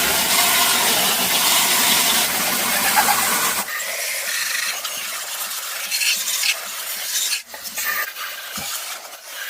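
A loud, even hiss for about the first three and a half seconds, then lighter, uneven scraping and rubbing strokes.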